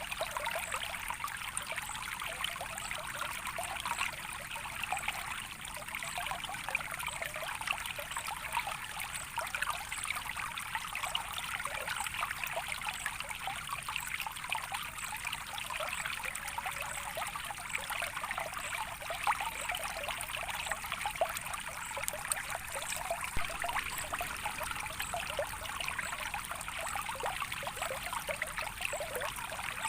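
Running water trickling and babbling steadily, a dense patter of small splashes with no let-up.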